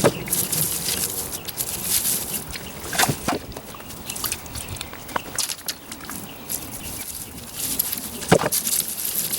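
Dry onion tops and leaves rustling and crackling up close as onions are pulled and handled, with irregular snaps and knocks.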